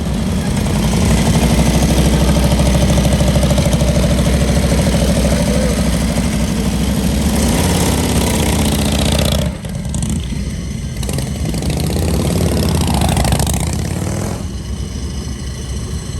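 Motorcycle engines running loud with a deep, steady rumble, sharply changing about nine and a half seconds in, then revving up and back down a few seconds later.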